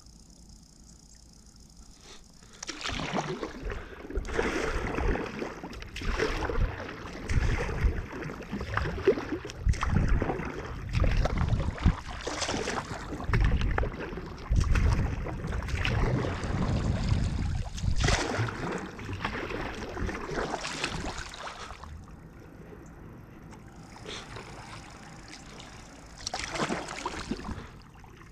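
Water sloshing and splashing around a kayak in irregular surges, starting a couple of seconds in and easing off after about twenty seconds, with one more brief splash near the end.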